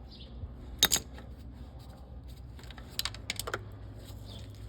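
Small metal parts and hand tools clicking and tapping as they are handled: two sharp clicks about a second in and a few more around three seconds in, over a faint steady low hum.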